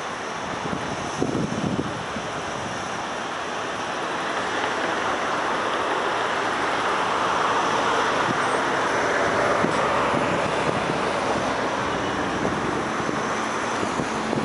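CPTM electric commuter train rolling slowly past at low speed, a steady rumble of wheels on rails and running gear that swells gradually, then eases slightly near the end.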